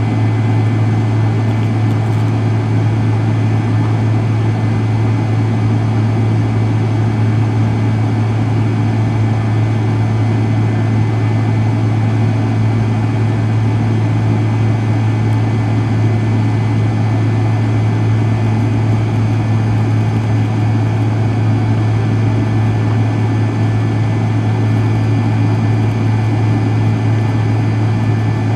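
Aft-mounted Pratt & Whitney JT8D turbofans of a McDonnell Douglas MD-83 running steadily at low power, heard from inside the rear cabin as an even drone with a strong low hum. No spool-up: the engines are not yet at takeoff thrust.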